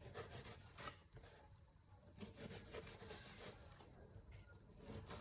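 Faint knife cuts through an onion on a cutting board: a few soft, scratchy strokes.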